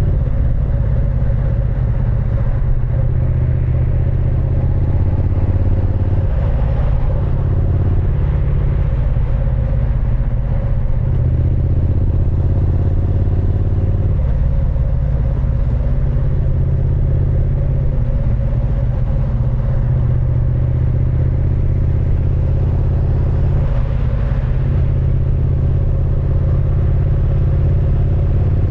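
Triumph Speed Twin 900's 900 cc parallel-twin engine and exhaust running steadily under way, its note shifting every few seconds as the throttle changes.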